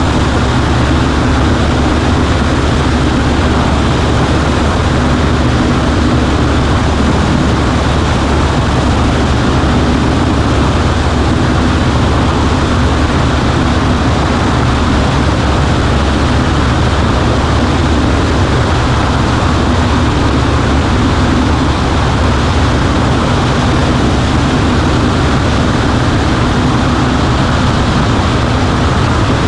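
Cessna 140A's piston engine and propeller running steadily, with a loud, constant drone and no change in pitch.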